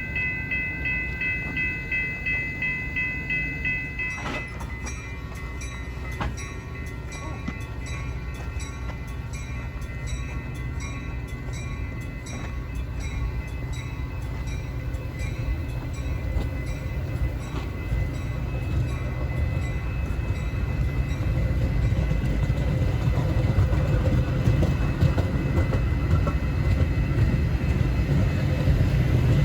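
Metra commuter train at the station: a bell rings rapidly, about two to three strokes a second, for the first four seconds and then stops. Then wheels click evenly over the rails while the diesel locomotive's low rumble grows louder toward the end.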